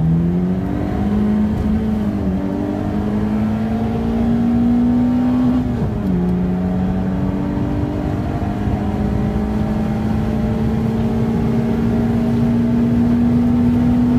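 Peugeot 106's engine heard from inside the cabin under acceleration, the revs climbing steadily, dropping sharply at an upshift about six seconds in, then climbing again to another shift at the very end.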